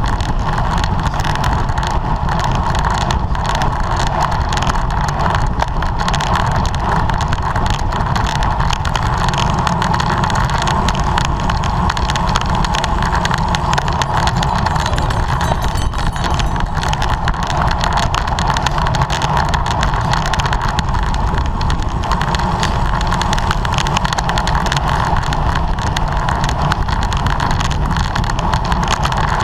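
Bicycle ridden at race speed: a steady rush of wind and tyre noise on the microphone, unbroken and even.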